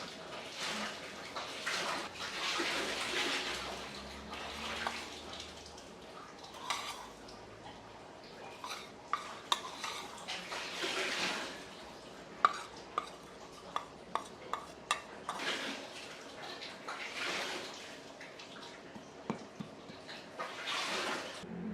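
Water splashing in swells, with a run of sharp, ringing clinks in the middle, like dishes and cutlery being handled while washing up.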